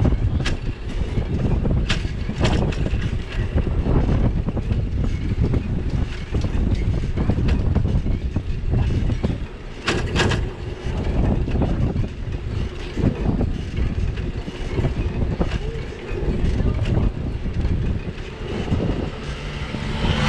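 Wind and road rumble picked up by an action camera riding on a moving bicycle, with sharp knocks and rattles now and then as the bike goes over bumps in the street.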